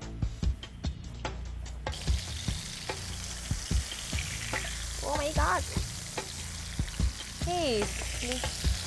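Marinated chicken fillet shallow-frying in hot oil in a non-stick pan, sizzling steadily, with scattered clicks and scrapes from a spatula pressing and turning it.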